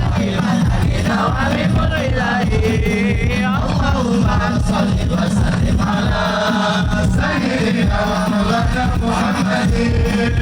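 Sholawat, an Islamic devotional song, sung with a wavering, melismatic vocal line and voices in chorus over steady, dense drumming.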